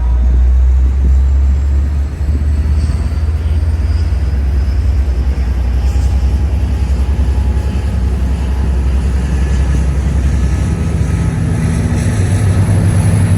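Amtrak Capitol Corridor passenger train pulling out of the station, a loud, steady, deep diesel rumble. About ten seconds in the engine note shifts to a higher, steadier hum.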